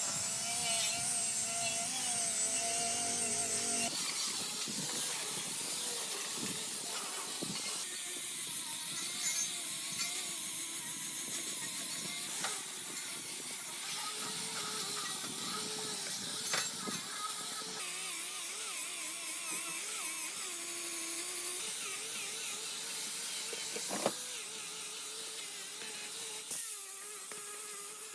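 Handheld electric power tool running steadily, its motor pitch wavering as it is worked against a part, with a couple of brief sharp knocks.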